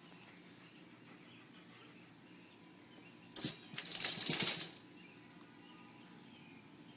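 A bird flapping its wings in a quick flurry about three and a half seconds in: a short flutter, then a louder one lasting nearly a second.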